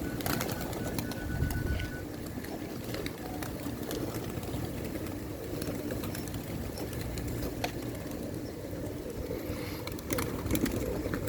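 Pigeons cooing, with scattered short clicks and taps throughout.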